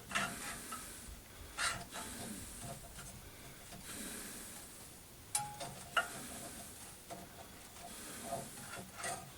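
Quiet background hiss with a few light clicks and taps scattered through, a second or more apart.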